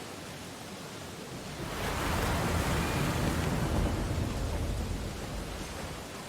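Ocean waves on a beach: a steady hiss of surf, with one wave swelling about two seconds in, breaking and washing back down.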